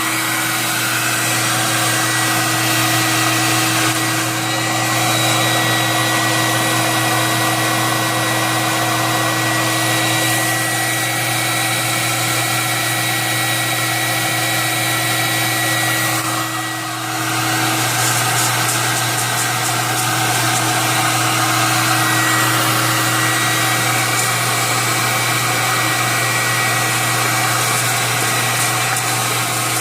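Hot-air popper running steadily while roasting coffee beans: a motor-driven fan whir with a steady hum and hiss and a few held tones. The level dips briefly about halfway through.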